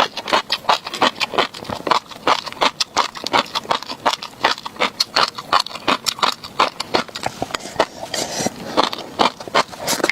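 Close-miked chewing of tobiko flying fish roe, the tiny eggs popping and crunching in quick crackling clicks, several a second.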